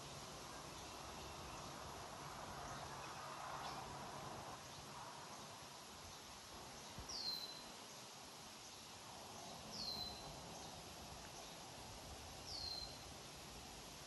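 A bird giving three short high whistled calls that slide downward in pitch, about two and a half seconds apart, over a faint steady outdoor hiss.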